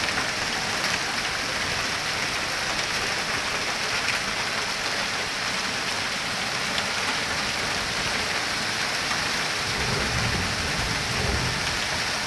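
Hail and rain pelting down in a steady hiss, scattered with the sharp ticks of hailstones striking hard surfaces. A low rumble swells about ten seconds in.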